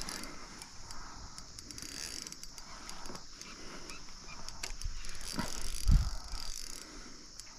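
Fishing reel being cranked and clicking while a hooked fish is played. There is a dull thump about six seconds in.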